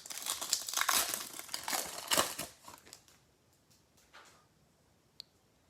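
Trading cards and their plastic pack wrapping being handled, crinkling and rustling for about three seconds, then a single faint tick near the end.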